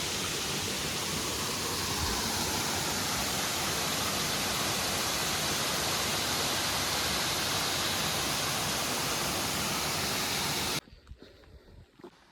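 Waterfall: a loud, steady rush of falling water that stops abruptly near the end.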